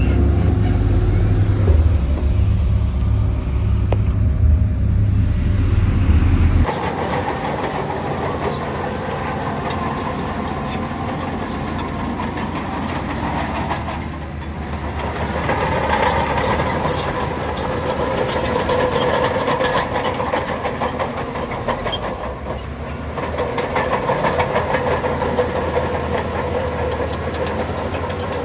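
Heavy earthmoving machinery at work: a deep diesel rumble, then after an abrupt change about seven seconds in, a crawler bulldozer's engine working with its steel tracks clattering and a whine that swells and eases twice.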